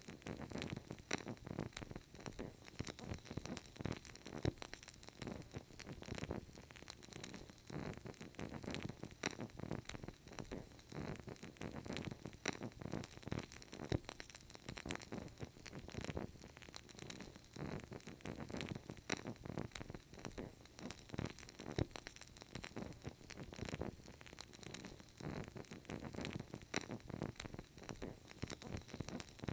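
A burning candle crackling softly, with many small irregular pops and ticks coming close together.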